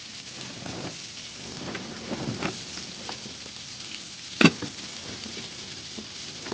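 Fish frying in hot oil over a wood fire, a steady sizzling hiss. A few soft knocks come in the first half, and one sharp, loud clack about four and a half seconds in.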